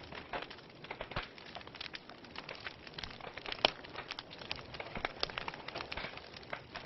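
Wood fire in a fireplace crackling: irregular sharp pops and snaps over a soft hiss, with one louder pop about halfway through.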